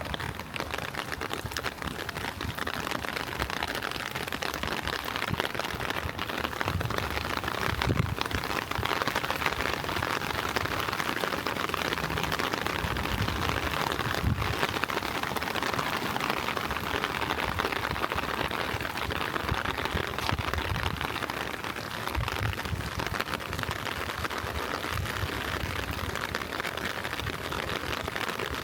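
Gentle rain falling steadily, a dense even hiss of drops, with soft low thumps every few seconds.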